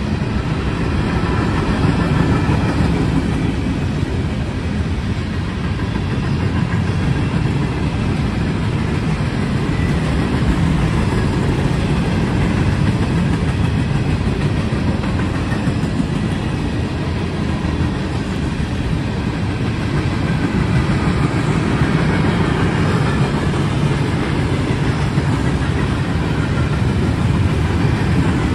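A train rolling past, its railcars making a steady, loud rumble on the rails.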